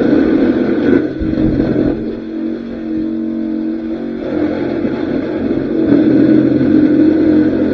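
Ford 2.9-litre V6 that had been submerged overnight, running and being revved. It eases off about a second in and picks up again toward the end.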